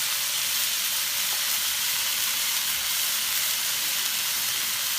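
Peppers and diced green chilies frying in marinade in a pan, a steady sizzle on turned-down heat.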